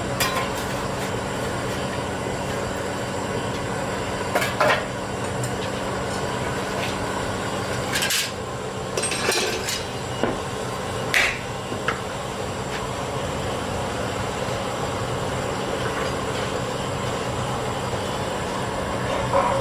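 Forge workshop machinery humming steadily, with a few scattered sharp metal clanks and knocks. A fast run of hammer strikes begins at the very end.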